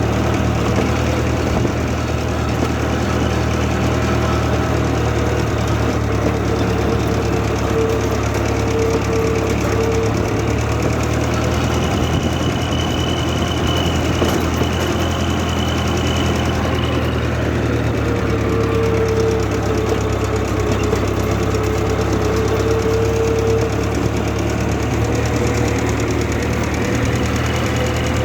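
International Harvester 444 tractor engine running steadily at an even speed, with a faint whine that wavers and comes and goes.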